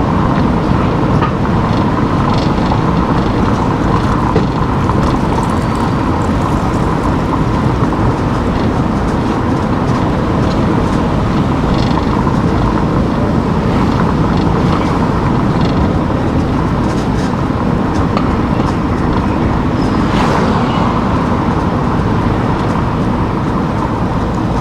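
Steady road and engine noise of a car driving on town streets, with a few faint clicks and a brief sweep about twenty seconds in.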